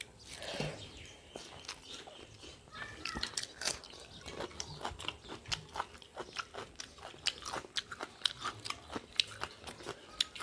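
Close-up eating sounds: chewing and wet lip-smacking of people eating khichdi rice by hand, with many short, sharp mouth clicks, several a second.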